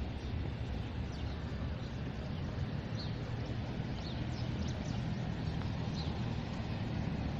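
Outdoor ambience: a steady low rumble with short, high bird chirps scattered throughout.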